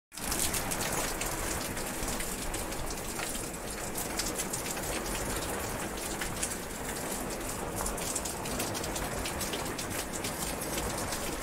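Steady rain falling on surfaces, a dense even hiss with many close drop ticks.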